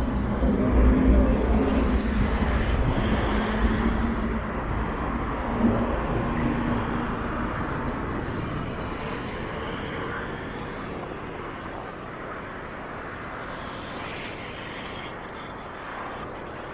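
Street traffic noise from a busy city road. A nearby vehicle's engine rumble and hum is loud at first and fades away over the first several seconds, leaving a steadier, quieter wash of traffic.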